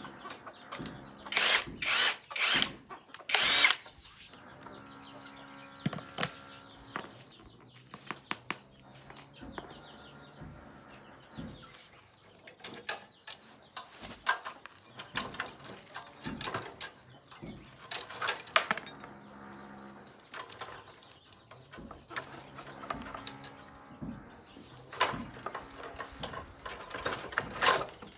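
Mechanic's tool work on a motorcycle: a quick run of four loud short bursts near the start, the last one slightly longer, like a power tool or impact driver on fasteners. Scattered clinks and knocks of hand tools follow, with a few more loud bursts around the middle and near the end.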